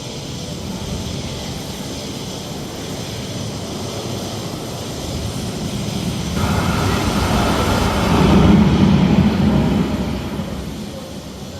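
Engine rumble of a passing vehicle, swelling to a peak about nine seconds in and then fading away.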